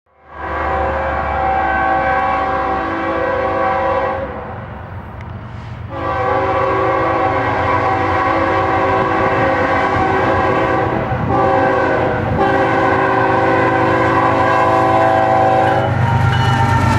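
BNSF diesel locomotive's multi-chime air horn blowing four blasts, long, long, short, long, the signal sounded for a grade crossing. The horn stops about a second before the end, leaving the low rumble of the passing locomotives.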